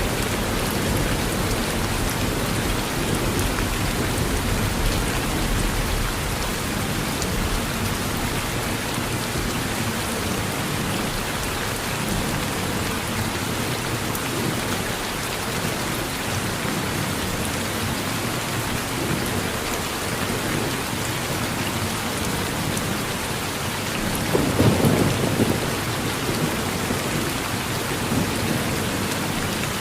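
Steady rain falling on a porch during a thunderstorm, with low thunder rumbling in the first few seconds and a louder peal of thunder a few seconds before the end.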